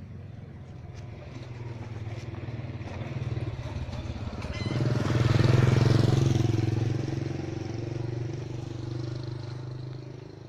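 A small motor engine runs close by, growing louder to a peak about halfway through and then slowly fading away as it passes.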